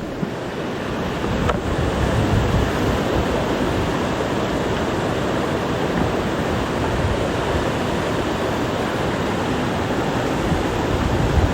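Steady rush of a swollen, flooded stream running high after heavy rain.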